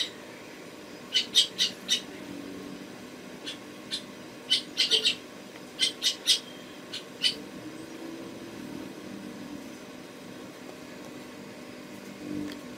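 A small bird chirping in short, high notes, in several quick clusters, falling silent about seven seconds in.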